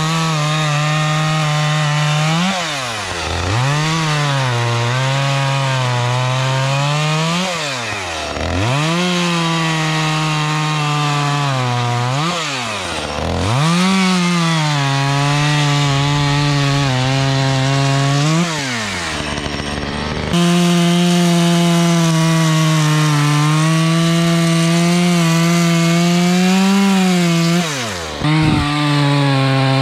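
Husqvarna chainsaw running at high revs while cutting wood. Its pitch drops sharply and climbs back about five times as the throttle is let off and squeezed again between cuts.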